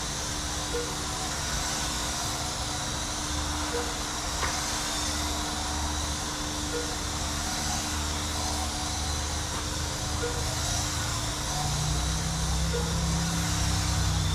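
1/18-scale electric RC race trucks running laps around a small track: a steady whirring hiss of small motors and tyres, with a low rumble that grows near the end.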